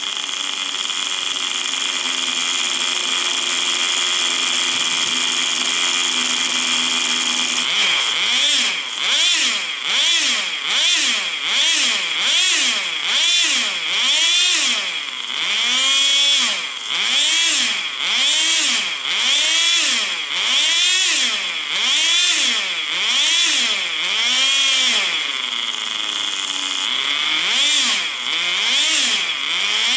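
Tamiya TGS 1/10 RC car's small nitro glow engine running: it holds a steady high pitch for about eight seconds, then its pitch rises and falls over and over, about once a second, as the revs go up and down.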